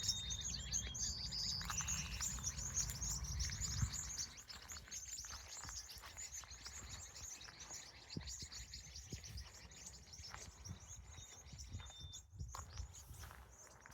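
Birds chirping and twittering at dusk, a dense, rapid high chatter with a few short whistled notes. A low rumble underneath falls away about four seconds in.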